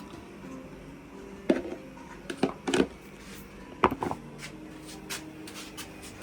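Several sharp knocks and clatters, the loudest about a second and a half in and near four seconds, over faint background music.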